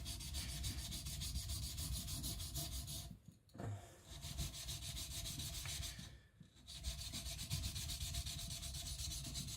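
Kiridashi blade being ground back and forth on a whetstone, working the front bevel down to remove the secondary bevel. The steady rasping strokes stop briefly twice, about three and six seconds in.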